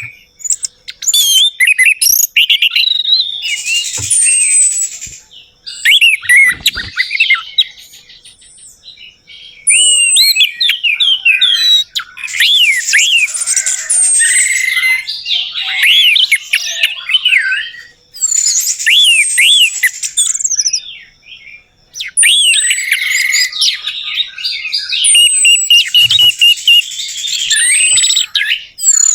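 Orange-headed thrush singing: long runs of rapid, varied whistles, chirps and mimicked notes, in phrases of a few seconds separated by short pauses.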